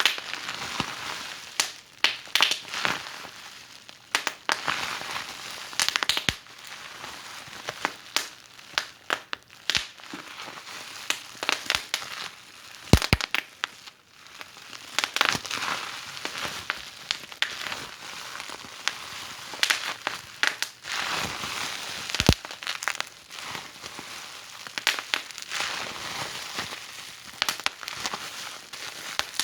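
Wood fire crackling in a fireplace: a steady hiss with many irregular sharp pops, a few louder snaps among them, about 13 and 22 seconds in.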